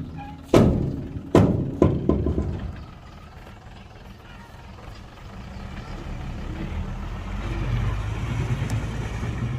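Heavy earthmoving machinery: three sharp, loud knocks in the first two seconds, then a low diesel engine rumble that grows steadily louder toward the end.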